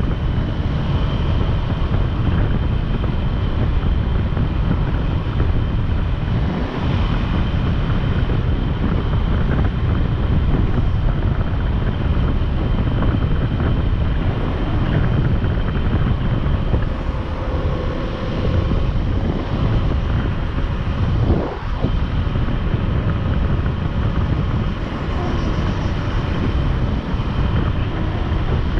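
Motorcycle on the move: steady wind rumble on the microphone over the engine and road noise.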